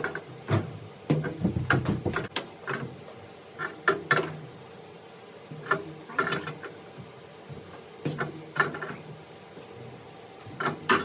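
Irregular clicks and knocks of hands and tools working on a water heater's supply-line fittings, with a denser clatter about a second in.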